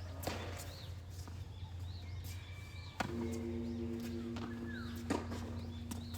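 Tennis balls being struck and bouncing, heard as a few sharp, scattered knocks over a steady low hum. About halfway through, a steady droning tone comes in and holds, and there are faint high chirps.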